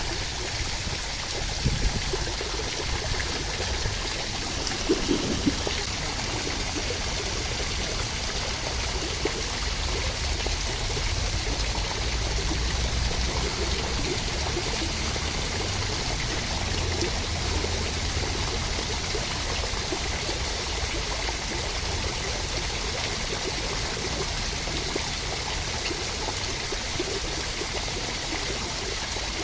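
Steady rushing water, an even wash of sound with low rumble, with a few brief louder splashes in the first six seconds.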